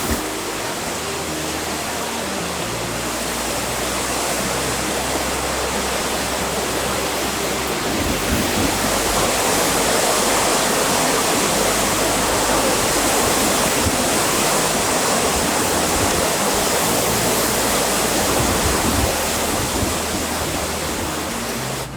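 Strong wind blowing over the microphone, a loud steady rush of noise that grows a little stronger about eight seconds in.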